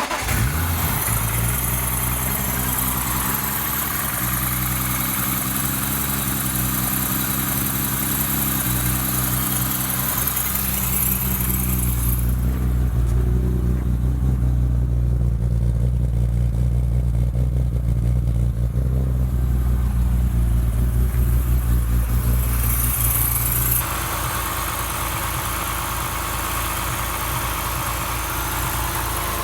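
Freshly rebuilt BMW S50B32 3.2-litre straight-six race engine with Schrick 284 cams, running steadily at idle just after catching. A high hiss fades out partway through and comes back, and the engine note drops slightly near the end.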